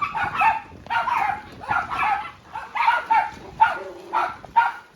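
Dogs barking over and over, about two or three barks a second.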